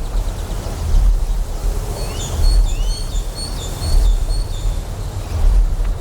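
Deep generator hum that swells and fades about every second and a half, in a layered nature ambience. From about two to four seconds in, a run of quick high chirps and short rising calls sounds over the hum.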